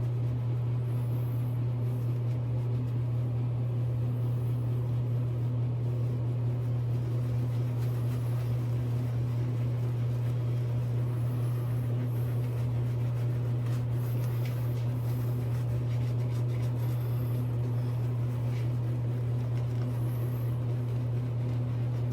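A steady low hum, even in level, with faint intermittent rustling above it.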